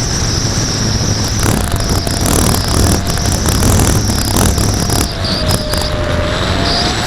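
Heavy wind buffeting the microphone, with the thin, steady whine of an Apprentice S 15e RC plane's electric motor and propeller running at part throttle; the whine dips slightly in pitch and then rises again near the end.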